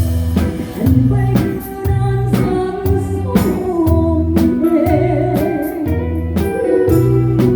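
A small live band playing a song at rehearsal: drum kit hits, a bass guitar pulsing steady notes, and electric guitar, with a voice singing over the top.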